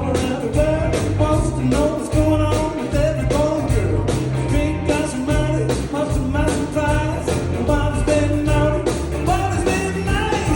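Band playing an upbeat boogie-woogie rock-and-roll song, with a steady driving beat and a singer.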